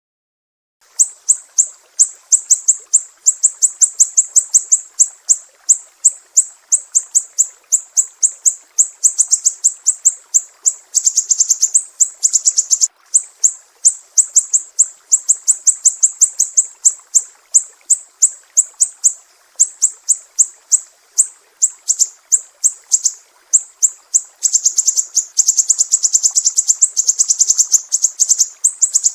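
Sumatran siri-siri songbird singing a fast, near-continuous string of sharp high chirps, broken by brief pauses. It starts about a second in.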